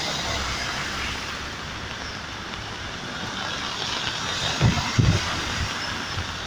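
Heavy rain and traffic on a wet street making a steady hiss, with wind buffeting the microphone a couple of times about four and a half seconds in.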